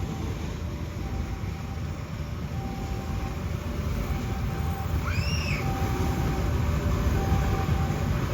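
Train rumbling past a level crossing, getting a little louder, while the crossing's warning signal repeats a short tone about every second and a quarter. A brief rising-and-falling whistle sounds about five seconds in.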